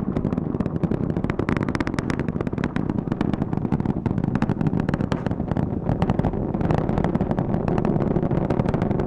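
Space Launch System rocket in flight, its two solid rocket boosters and four RS-25 core stage engines giving a steady, heavy roar with a dense crackle running through it.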